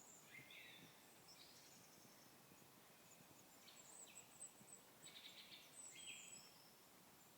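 Faint songbirds calling over a steady background hiss. Several short chirps and high notes come in turn, with quick trills about four and five seconds in.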